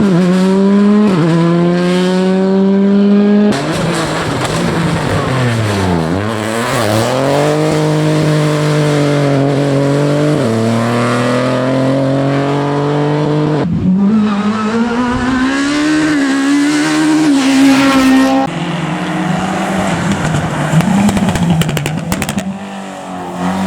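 Rally cars driven hard one after another: engines revving up through the gears, dipping on lift-offs and downshifts, then pulling up again. The engine note changes abruptly a few times as one car gives way to the next.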